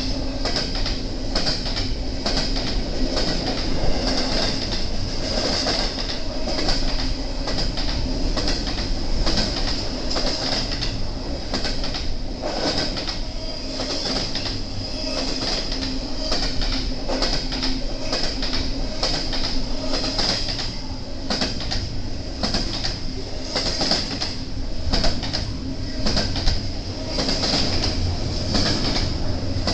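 BNSF intermodal freight train rolling past, its car wheels clicking over the rail joints in a continuous stream, with a steady high-pitched whine over the rumble.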